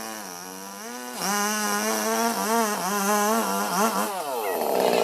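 Two-stroke chainsaw engine running at high speed, its pitch wavering up and down as the revs rise and dip. It is quieter for about the first second, then runs louder until near the end.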